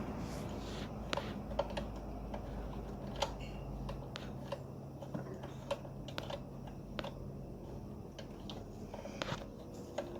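Scattered light clicks and taps from hand tools and engine parts being handled, over a low steady hum that dies away about four seconds in.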